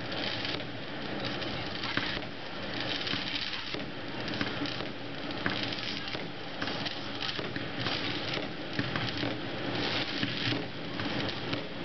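Fireworks going off: a dense, continuous crackle of many small pops and bangs, with no single big bang standing out.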